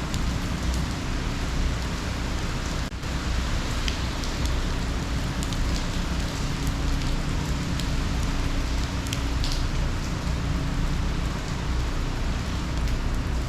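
Heavy rain from Hurricane Ian falling steadily, with a low rumble underneath.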